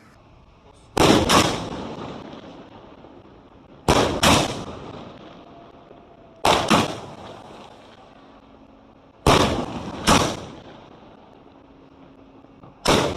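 30-shot sky shot firework cake firing: sharp bangs in close pairs, a new pair about every three seconds, each pair trailing off in a rolling echo. Four pairs, then a single bang near the end.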